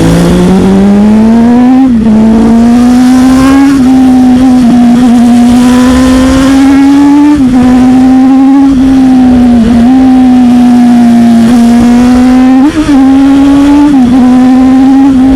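Sport motorcycle engine revving up over the first couple of seconds, then held at high revs with several short dips and recoveries, heard from on the moving bike with wind rushing on the microphone.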